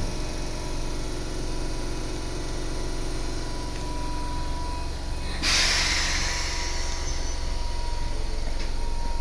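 Interior of an electric commuter train: a steady low rumble, then about five seconds in a sudden loud hiss of compressed air from the train's pneumatic system that fades away over a couple of seconds, the kind heard from air brakes or doors at a station stop.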